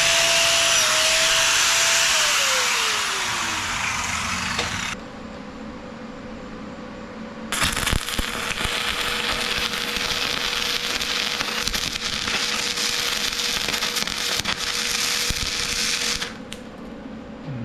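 Angle grinder running, then winding down after the trigger is released, its pitch falling over a second or two. A few seconds later a welding arc crackles steadily for about eight seconds and then stops.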